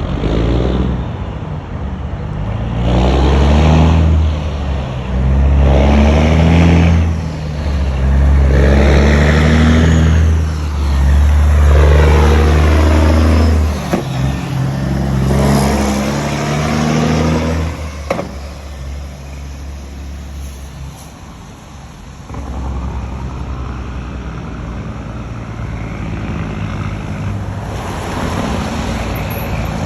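Straight-piped diesel truck engine with its Jake brake barking: a run of loud, low bursts of a second or two each, one after another, then the engine settles to quieter, steadier running for the second half.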